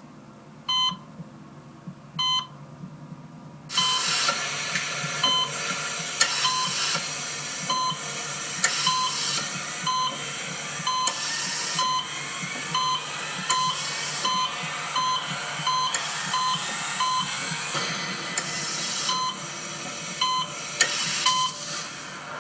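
Repeated short electronic warning beeps, about once a second, joined about four seconds in by a loud steady hiss that lasts until just before the end.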